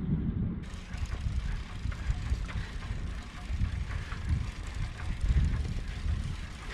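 Wind buffeting the microphone on a moving bicycle: an uneven, gusting low rumble. Background music ends in the first half second.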